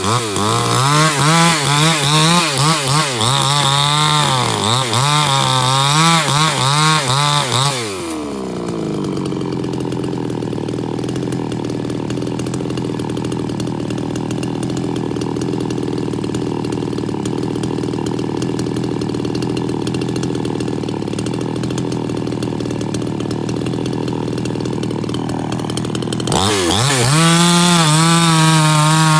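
Two-stroke chainsaw running at high speed with its pitch repeatedly rising and falling. About eight seconds in it drops to a steady idle, and near the end it is throttled back up to high speed.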